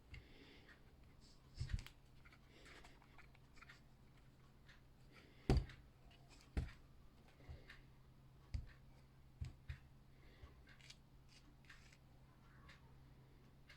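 Scattered clicks and knocks of something being handled, over a faint steady hum; the loudest knock comes about five and a half seconds in.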